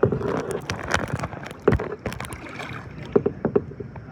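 Hollow knocks and clunks of paddles against plastic kayak hulls, a dozen or so irregular strikes, some ringing briefly.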